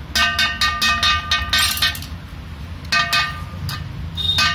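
Metal hand tools clinking and clicking on a motorcycle engine's clutch parts, with a ringing metallic tone, in three bursts of rapid clicks.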